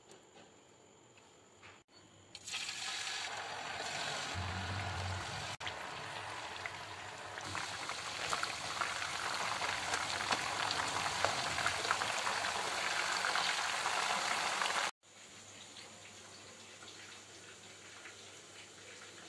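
Green-masala chicken tikka pieces on bamboo skewers sizzling in shallow oil in a frying pan: a steady, dense crackling sizzle that starts a couple of seconds in and cuts off suddenly about four seconds before the end.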